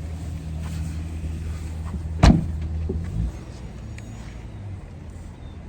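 A steady low mechanical hum, with one loud thump a little over two seconds in and a smaller knock about a second later, after which the hum drops away.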